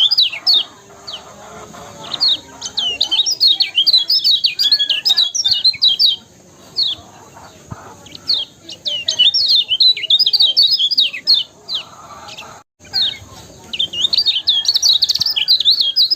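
Kecial kuning, a small white-eye, singing a rapid, high twittering song. The song comes in phrases of a few seconds made of quick chirps, with short pauses between them.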